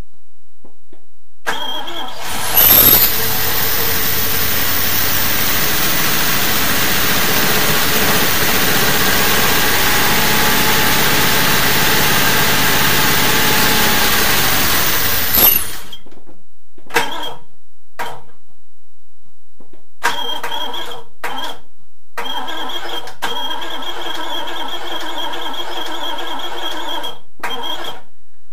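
Triumph Stag 3.0 V8 being cranked on its starter motor: one long crank of about fourteen seconds, then several shorter cranks, without the engine catching. The owner takes the failure to run for a carburettor fault, the carbs needing to come off and be cleaned.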